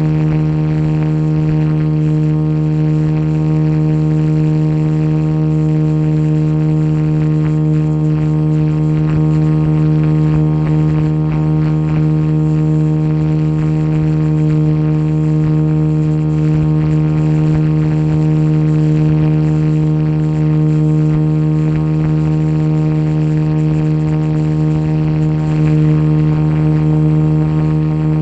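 A steady, loud droning hum held at one unchanging pitch, with a rumble of noise beneath it.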